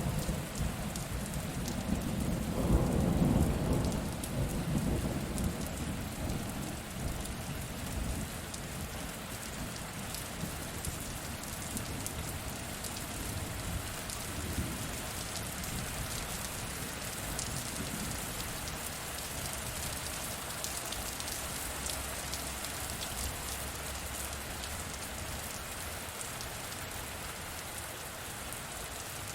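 Steady rain falling, with a low roll of thunder that swells about three seconds in and fades out within a few seconds, leaving the even patter of rain.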